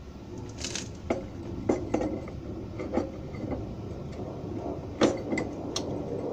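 Irregular knocks and clinks of metal tools and parts being handled, about eight in all with the sharpest about five seconds in, over a steady low rumble.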